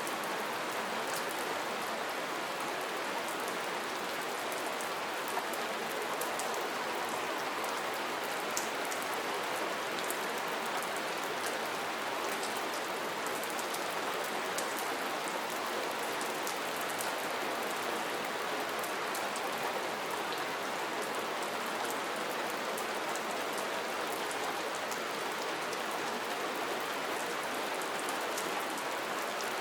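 Steady rain falling, a continuous hiss with many fine drop ticks and patters on a surface.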